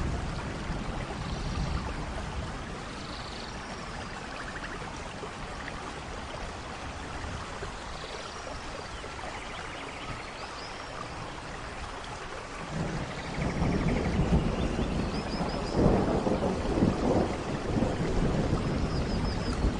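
Steady rain falling in a rainforest thunderstorm. About two-thirds of the way in, a low thunder rumble builds and stays loud to the end.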